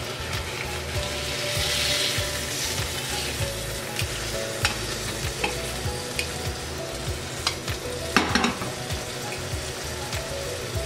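Salmon fillet sizzling as it pan-fries in oil in an All-Clad stainless steel pan. A metal spatula clicks and scrapes against the pan as the fillet is turned. The sizzle swells about two seconds in, and there is a louder scrape about eight seconds in.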